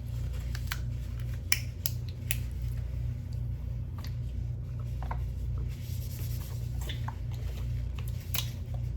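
Close-up eating sounds: chewing with scattered small clicks and wet crackles, over a steady low hum.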